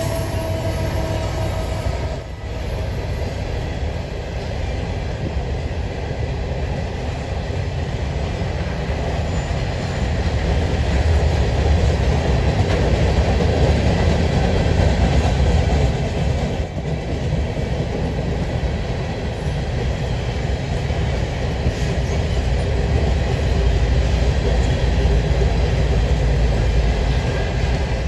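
Freight train of covered hopper cars rolling past: a steady low rumble and rattle of steel wheels on the rails, swelling a little in the middle and again near the end.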